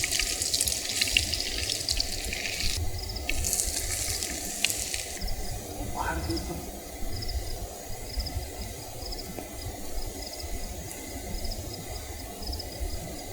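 A crackly, water-like hiss in two spells over the first five seconds, then crickets chirping in a steady pulse of about one and a half chirps a second, over a low steady rumble.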